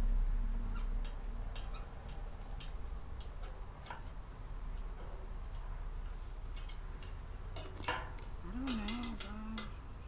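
Scattered light clicks and taps of the storage cart's metal parts and screws being handled during assembly, with a sharper knock about eight seconds in. A low wavering hum follows for about a second.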